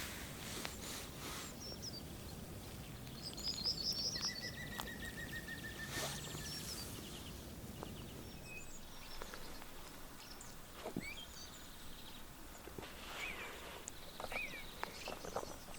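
Several wild birds calling and singing at dawn over a quiet outdoor background: a fast run of high notes and a steady trill early on, then scattered short chirps.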